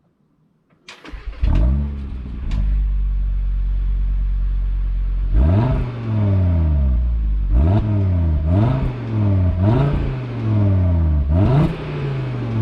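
2022 Audi RS3 Sportback's turbocharged 2.5-litre inline-five engine starting up about a second in with a brief flare, settling to a steady idle, then revved with five quick throttle blips, each rising sharply and falling back to idle.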